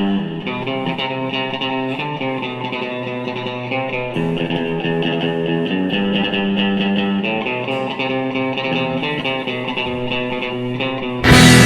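Band music: a guitar plays a repeated picked figure over bass. Near the end the full rock band comes in much louder.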